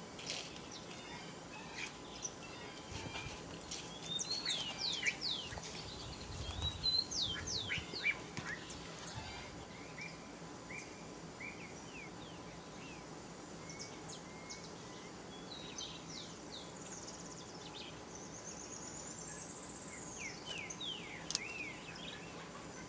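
Birds chirping and calling: clusters of quick, high, downward-sweeping notes over a steady background hiss, with a short rapid trill near the end.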